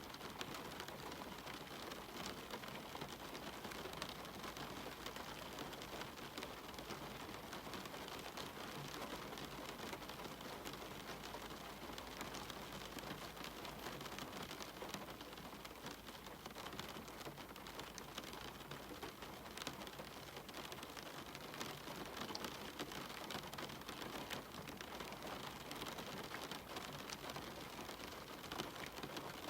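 Steady rain falling, with a dense patter of individual drops striking a window.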